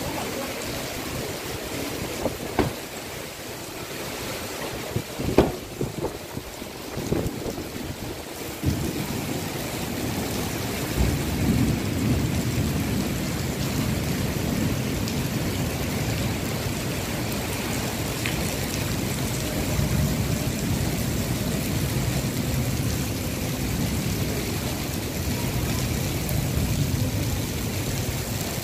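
Heavy rain in a storm with strong wind, an even rushing noise. A few sharp knocks come in the first seconds, and the rush grows louder and fuller from about nine seconds in.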